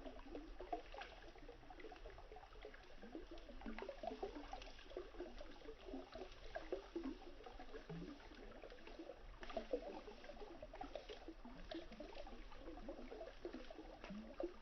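Running river water babbling and gurgling steadily, with scattered sharp crackles from a burning wood campfire.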